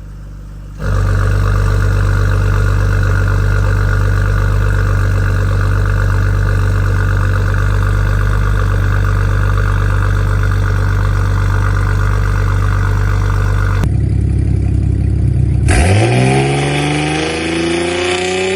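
BMW M240i's turbocharged straight-six through a titanium aftermarket exhaust, starting loud about a second in and running at a steady deep idle drone. About fourteen seconds in the sound changes, and near the end the revs climb sharply and then keep rising steadily.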